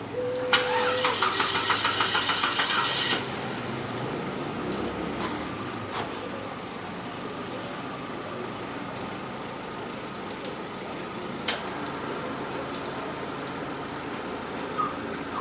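Chevrolet Optra's starter cranking the engine in quick even pulses for about two and a half seconds until it catches, then the engine idling steadily.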